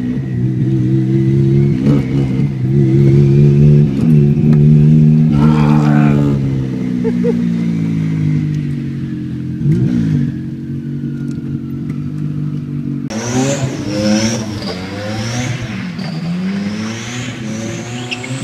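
Car engine revving up and down again and again as the car is slid through turns, heard from inside the cabin. About two-thirds of the way in the sound changes abruptly to engine revving heard from outside, with higher rising-and-falling tones over it.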